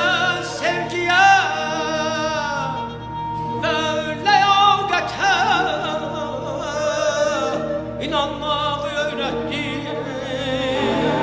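Mugham singing: a male voice in long, heavily ornamented phrases with rapid trills, over sustained chords from a symphony orchestra.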